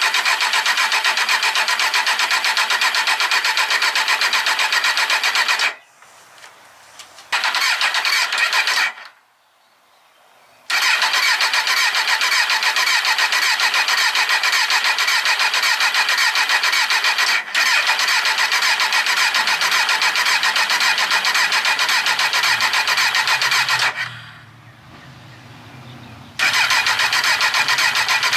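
A 2003 Kawasaki Z1000's electric starter cranks its inline-four engine in long bursts, with a fast, even churning rhythm. It stops briefly three times and then cranks again: a first start attempt after six years of sitting.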